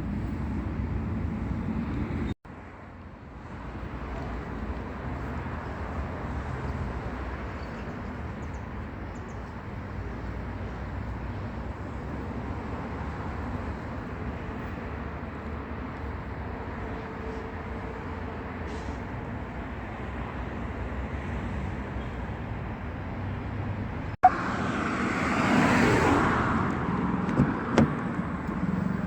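Steady low rumble of vehicle or traffic noise. It cuts off abruptly twice, and gets louder and busier in the last few seconds, with a few sharp clicks.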